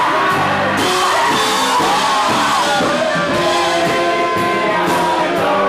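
Live rock band playing loudly, drums striking steadily under the instruments, with singing and shouted voices.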